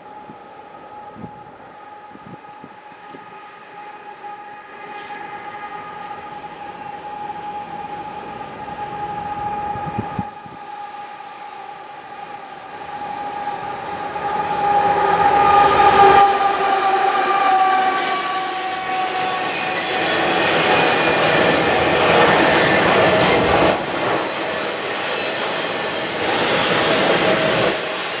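A GE ES44AC diesel-electric locomotive approaches under power with a steady pitched whine. The whine grows louder and drops in pitch as the locomotive passes about halfway through. A long double-stack container train then rolls by with loud wheel-on-rail noise and wheel squeal.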